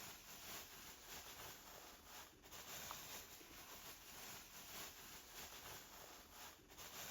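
Near silence: faint steady background noise with a couple of tiny clicks.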